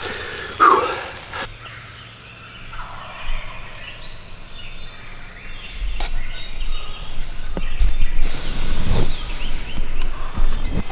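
A wild turkey gobbles once, loud and brief, about half a second in. From about six seconds on there is low rumbling and rustling that grows louder.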